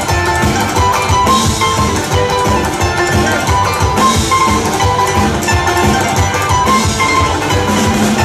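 Live band playing an instrumental passage: a steady drum beat and bass under a bright, repeating picked melody line.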